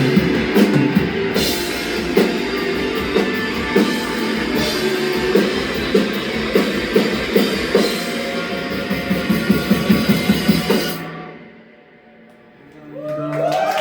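Rock band playing, with drum kit, guitars and cymbals. A quick run of drum hits builds about ten seconds in, then the music drops away almost to quiet before rising tones swell back near the end.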